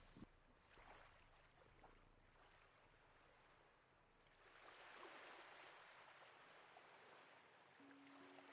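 Near silence with a faint wash of sea waves, swelling a little about halfway through. A soft sustained musical note comes in near the end.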